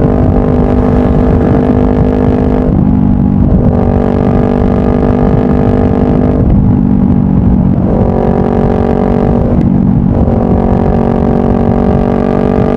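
Honda CBR500R's parallel-twin engine running through a Yoshimura full exhaust system while riding, with a heavy wind rumble on the microphone. The engine note breaks off briefly three times, about three, six and a half and ten seconds in, then picks up again.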